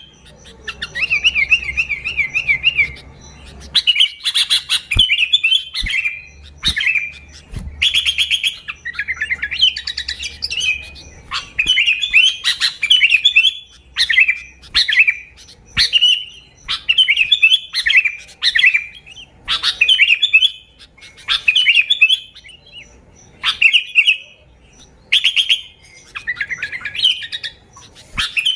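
Sooty-headed bulbul (kutilang) singing loudly and continuously: short, bubbly warbled phrases repeated about once a second.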